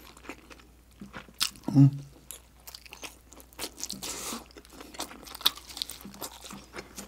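Close-miked chewing and biting of a crispy pan-fried dumpling: small crunches and wet mouth clicks, with a denser crunch about four seconds in and a short hummed "mm" about two seconds in.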